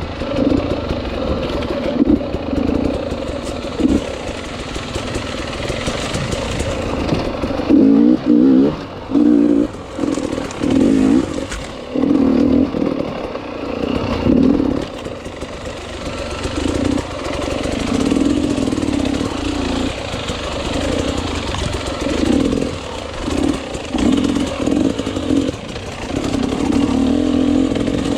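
Enduro motorcycle engine being ridden hard, the throttle snapped open and shut again and again, so the revs come in short loud bursts with sudden drops between them, most often in the middle stretch and again near the end.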